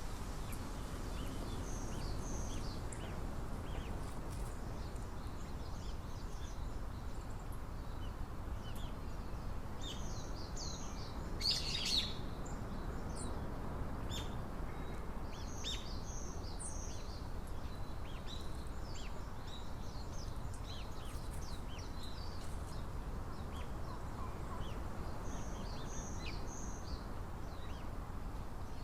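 Small wild birds chirping, many short high calls scattered throughout, with a louder flurry of chirps near the middle, over a steady low rumble of outdoor background noise.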